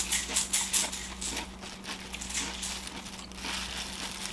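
Close-miked eating sounds: wet mouth clicks and smacks from chewing, quick and dense at first, then sparser.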